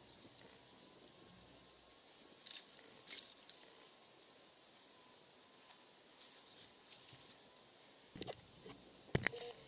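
Wood fire burning, with scattered crackles and pops over a steady hiss. Near the end come a few sharper knocks.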